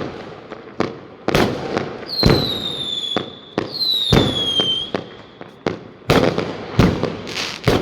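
Fireworks exploding all around in quick succession, a string of sharp bangs. Near the middle, two high whistles, each about a second long and dropping slightly in pitch, sound over the bangs.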